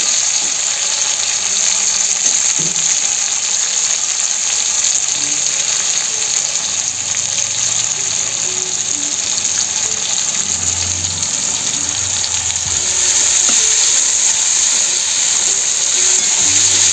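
Sliced tomato and onion sizzling in hot mustard oil in a steel kadai: a steady frying hiss that grows a little louder in the last few seconds, with a metal spatula stirring near the end.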